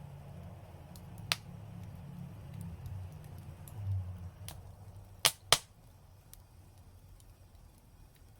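Fire in a brick fireplace crackling, with faint ticks throughout, a sharp pop about a second in, and two loud pops in quick succession a little past the middle. A low rumble dies down over the second half.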